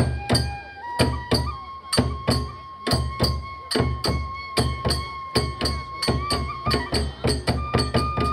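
Kagura hayashi music: taiko drum and small hand cymbals striking about twice a second, the cymbals ringing after each stroke, under a bamboo flute holding long notes that step up in pitch. The beat quickens near the end.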